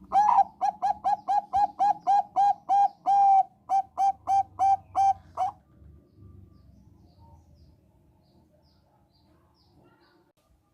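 Zebra dove (Thai-bred perkutut bangkok) singing a quick run of about twenty short, clear coos, three or four a second, with one longer note in the middle; the song stops about five and a half seconds in.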